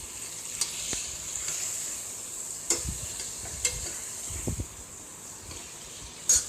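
Soya chunks and masala sizzling in hot oil in a pressure cooker pan while being stirred, with a spoon scraping and knocking against the pan several times, loudest near the end.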